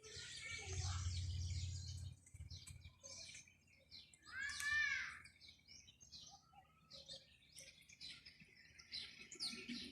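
Small birds chirping and twittering throughout, with one louder, drawn-out call that rises and falls about four to five seconds in. A low hum sits under the first two seconds.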